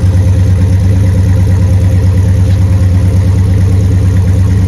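1969 Dodge Super Bee's 440 V8 with its Six Pack triple carburetors idling steadily, heard from right behind its dual exhaust tips.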